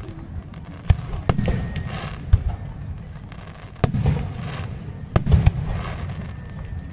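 Aerial fireworks display: about six sharp bangs of shells bursting at irregular intervals over a continuous low rumble.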